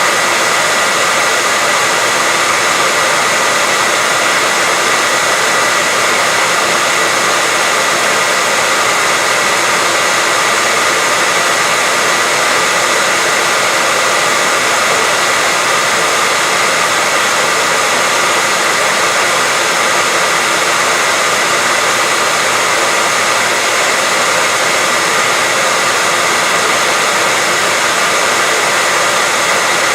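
Steady white noise for sleep or masking: an even, unchanging hiss, weighted toward the higher pitches, with a faint high steady tone running through it.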